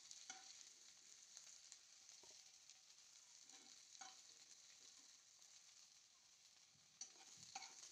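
Okra, fried about 70% done, sizzling faintly in hot oil in a kadhai, with a few light scrapes and taps of a spoon as it is stirred and scooped out.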